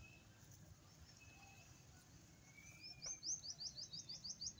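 A bird calling: a fast run of short, sharp, high notes, about eight a second, starting about three seconds in. It comes after a few faint, thin whistles.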